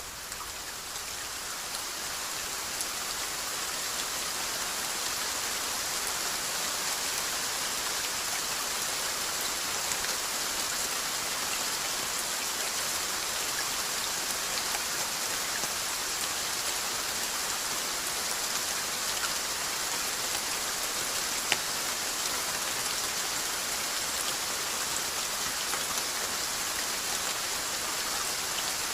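Steady rainfall, a dense even patter of drops. It dips in level right at the start and swells back over the first few seconds. A single sharper tick stands out about two-thirds of the way through.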